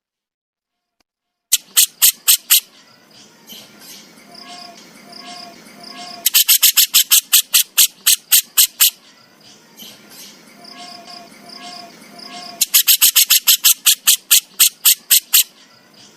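Burung jenggot (Javan jenggot bird) giving its harsh, rasping 'besetan' call: three bouts of rapid, loud pulses at about six a second, with quieter repeated bird notes between bouts. It starts about a second and a half in, after a short silence.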